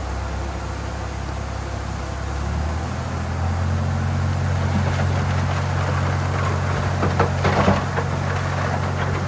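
Heavy diesel engine of construction machinery running; its note steps up about three seconds in as it revs under load. Irregular rattling and clatter join from about halfway through.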